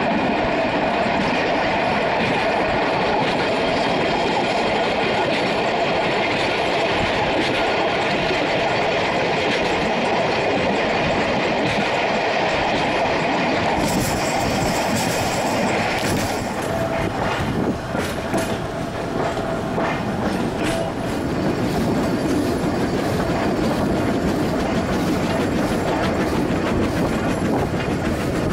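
Narrow-gauge steam train carriages running along the track: a steady rumble of wheels on rail with a clickety-clack of rail joints, heard at an open carriage window. A thin steady whine runs through the first half, and the sound turns hissier about halfway.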